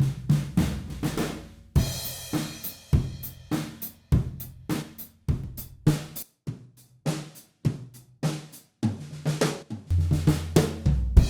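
Sampled acoustic drum kit, a 1960s Japanese stencil kit, playing a steady groove of kick, snare and hi-hat, with a cymbal crash about two seconds in.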